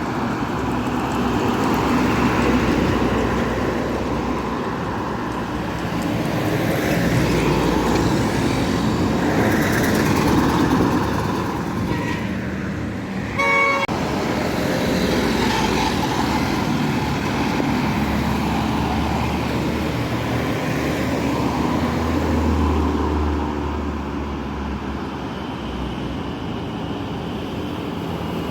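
Road traffic with heavy vehicles passing: engine and tyre noise rising and falling as trucks and buses go by. About halfway through a vehicle horn sounds briefly with a fluttering chord, and later a deep diesel rumble passes.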